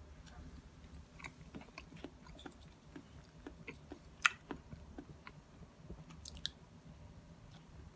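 A person biting and chewing a soft banana close to the microphone: wet mouth smacks and small clicks, irregular, with one sharper click about halfway.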